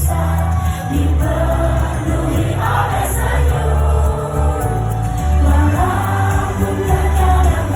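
Live pop music played loud through a concert sound system: a group of young women singing a melody together in unison over heavy, pulsing bass.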